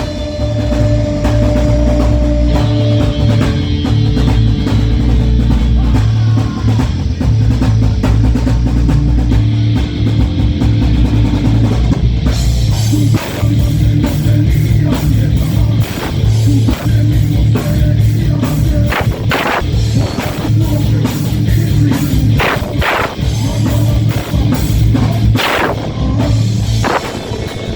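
Live rock band playing an instrumental passage, with electric guitars, bass and a drum kit.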